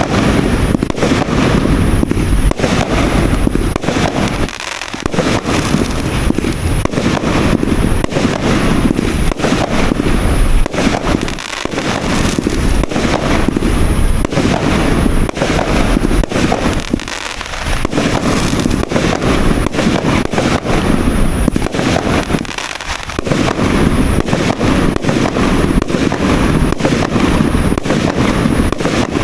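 A 200-shot, 1-inch fireworks cake firing in rapid succession: a dense, continuous stream of bangs with a few short lulls between volleys.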